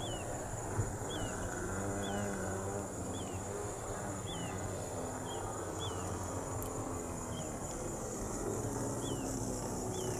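Short descending chirps from a bird repeating about once a second over a steady high insect drone.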